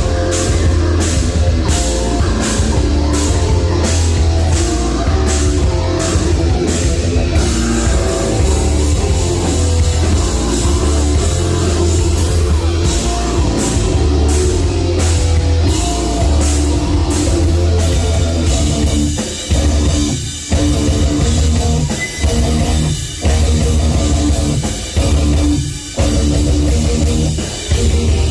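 Live heavy metal band playing loud: distorted guitars, heavy bass and a pounding drum kit. From about two-thirds of the way in, the riff turns stop-start, with short breaks between hits.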